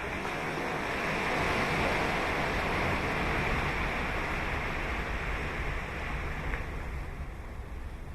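Ocean surf breaking on a sandy beach: the hiss of one wave's wash swells over the first couple of seconds, then fades away over the next few seconds, over a steady low rumble.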